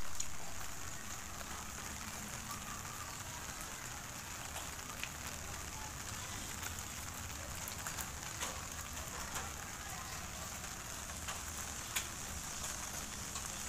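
Light rain falling on a wet street: a steady soft hiss with a few scattered sharp drip ticks.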